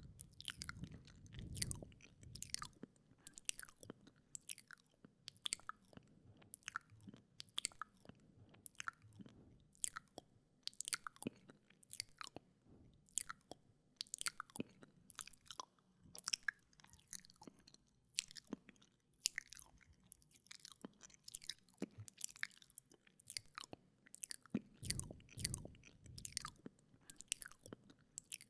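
Wet mouth sounds made close to a binaural microphone: irregular smacks, clicks and licks of the lips and tongue, several a second. A couple of low, muffled swells come near the start and near the end.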